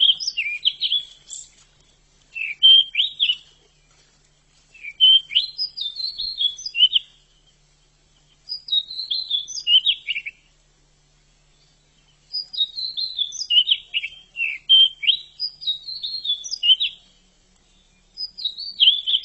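Pied bushchat (decu) singing: short, quick, twittering song phrases, each a second or two long, repeated with brief pauses between them.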